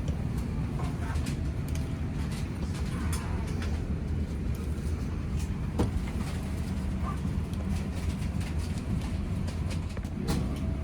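Steady low rumble of a moving vehicle heard from inside, with scattered light clicks and rattles.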